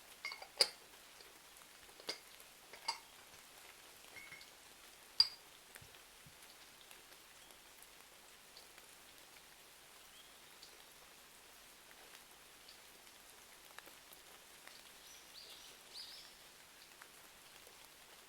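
Steady rain, faint and even, with a handful of sharp pops and clicks in the first six seconds, the loudest about five seconds in.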